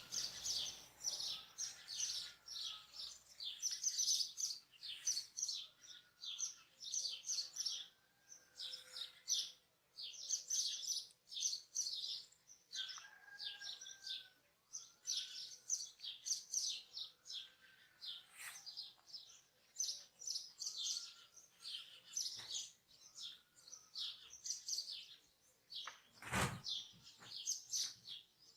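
Several small songbirds chirping and twittering rapidly and continuously, with a lower arched whistled note repeated every second or two. A brief low thump comes near the end.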